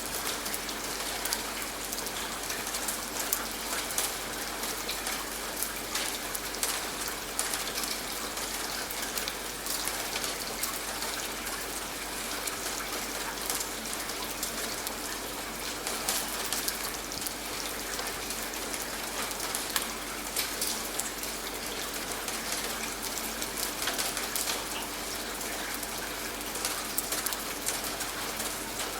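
Steady rain falling, a continuous hiss dense with separate drops striking a surface.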